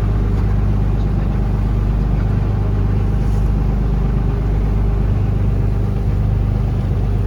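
Taxi boat's engine running steadily under way, a loud low drone with an even hum.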